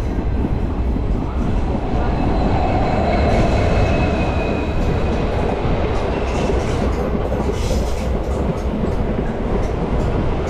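Diesel multiple unit passenger train running, heard from inside the coach: a loud steady low rumble with a faint high whine that fades about halfway through, then scattered clicks of the wheels over the rails.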